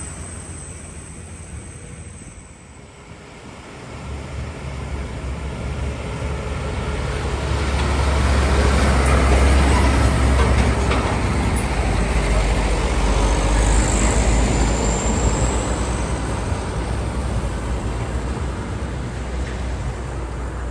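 A heavy diesel truck passing close by, its deep engine rumble swelling to a peak about halfway through and then slowly easing off. A brief high squeal comes about two-thirds of the way through.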